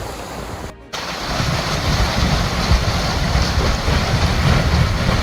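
Strong wind buffeting the microphone over a rushing wash of waves, broken by a short drop-out about a second in and then louder.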